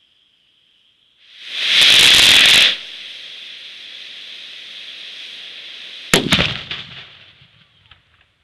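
A large firework going off: a loud rushing burst lasting about a second, then a steady hiss, broken by a quick cluster of sharp cracks about six seconds in.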